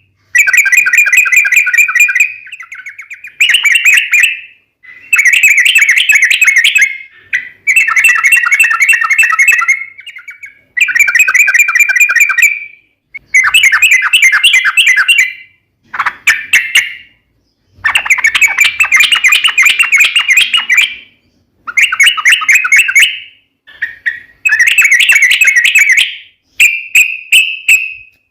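Yellow-vented bulbul (trucukan) singing in its long rolling style: loud, rapid bubbling phrases, each a second or two long, repeated over and over with short pauses between them.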